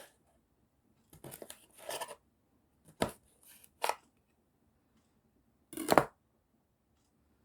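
Kitchen knife cutting juicy tomatoes on a cutting board: a few separate slicing strokes, the loudest and longest about six seconds in.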